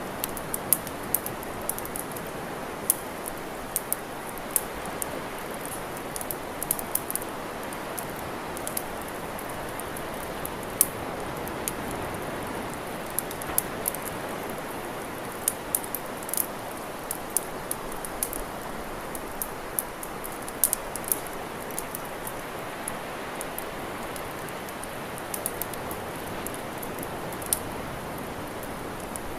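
Campfire crackling, with many sharp, irregular pops and snaps over a steady rushing hiss.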